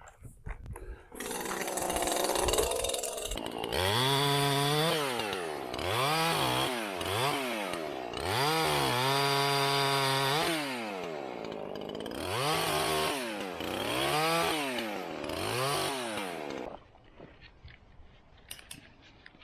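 Chainsaw engine revving up and down over and over in a series of throttle pulls, then stopping suddenly near the end.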